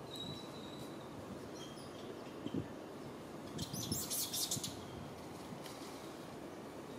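Small birds chirping in the surrounding trees, with a short burst of crackling rustle and a few dull thumps about halfway through.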